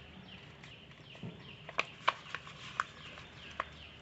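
A sheet of paper being handled and creased by hand, with sharp crinkles and taps several times in the second half. Faint short bird chirps repeat in the background.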